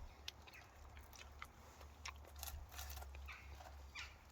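Faint chewing of a mouthful of steak pie, with scattered small mouth clicks.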